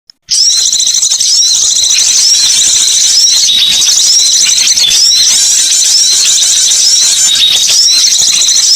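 Dense, high-pitched twittering of small songbirds from a bird-luring recording. It starts after a brief gap and carries short rising chirp phrases that repeat about once a second over continuous chatter.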